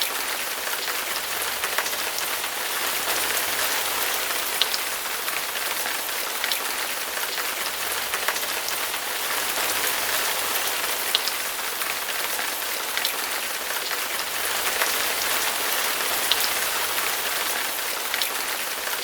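Steady rain falling on hard surfaces: an even hiss with scattered individual drips ticking through it.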